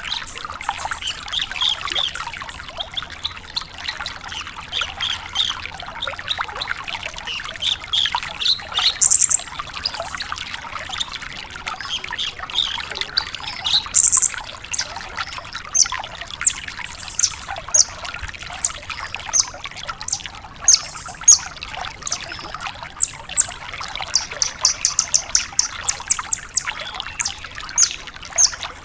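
Branjangan (Horsfield's bush lark) singing vigorously: a long, unbroken stream of quick, sharp high chirps and trills, busiest and highest in the second half.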